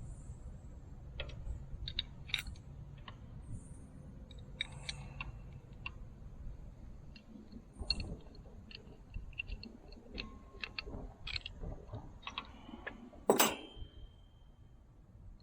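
Small metallic clicks and clinks of hydraulic hose fittings and hand tools being handled while the hoses are run in and threaded onto the valve, with one louder metal clank about 13 seconds in that rings briefly.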